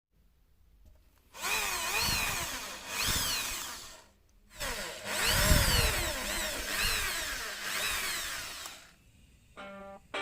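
Power tool running in two long bursts with a short break between, its pitch sweeping up and down about once a second as the load changes. Plucked guitar music starts near the end.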